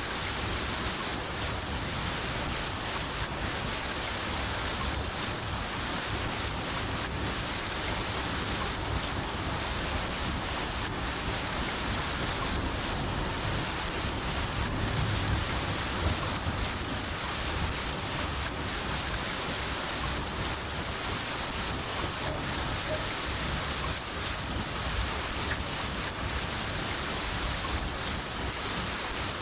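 A cricket chirping in a steady, even rhythm, about three high chirps a second, pausing briefly twice, over the steady hiss of falling rain.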